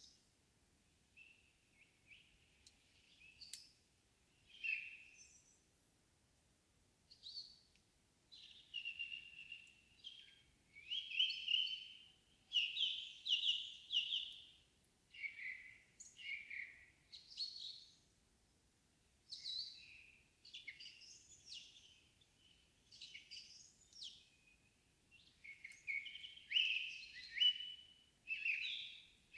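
Wild songbirds singing in an evening forest. A few scattered chirps give way, about a quarter of the way in, to a busy run of clear, high song phrases that go on with short pauses.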